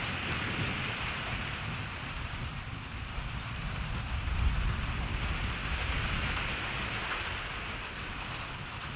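Steady rain falling, with a low rumble of distant thunder that swells about halfway through and then fades.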